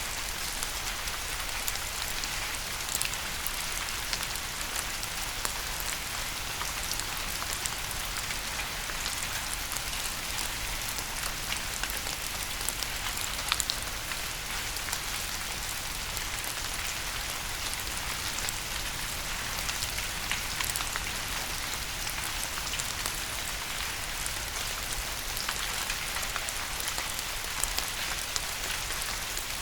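Steady rain falling on a surface, a dense even hiss with many distinct drop ticks and an occasional louder drip.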